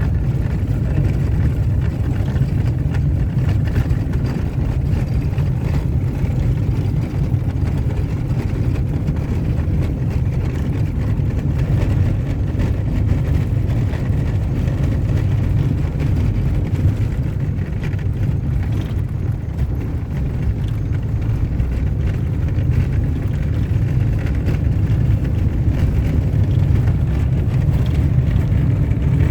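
Car driving along a dirt road: a steady low rumble of engine and tyres that holds evenly throughout.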